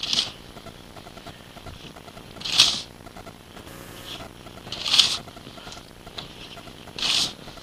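Digging in snow: three short scraping strokes, roughly two and a half seconds apart.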